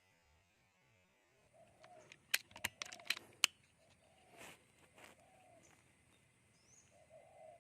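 Spotted dove (tekukur) cooing: a string of short, low coos repeated through the stretch. About two to three and a half seconds in, a quick run of about five sharp clicks, the loudest sounds here.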